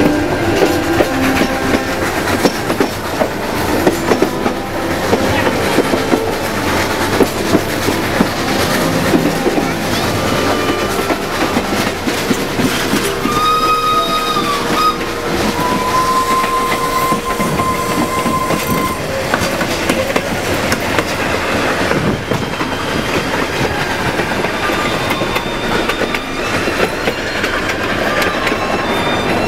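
Train of the Baie de Somme heritage railway running, its wheels clattering steadily over the rail joints. About halfway through a short whistle sounds, followed by a longer steady high tone lasting about three seconds.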